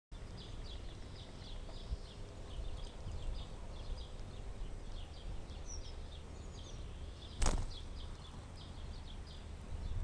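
Small birds chirping over and over with short, high chirps, over a steady low rumble. A single sharp knock, the loudest sound, comes about seven and a half seconds in.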